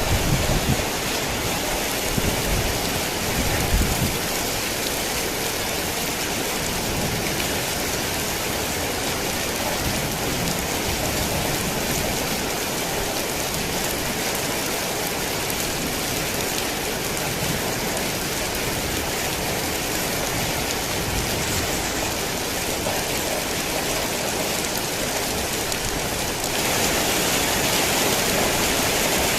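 Heavy rain falling steadily, a dense even hiss of drops. A few low rumbles come in the first few seconds, and the rain gets a little louder near the end.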